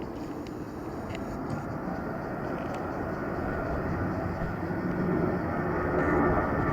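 Airbus A320-214's CFM56 jet engines growing steadily louder as the airliner draws nearer, a rumble with a whine coming in over it about two seconds in.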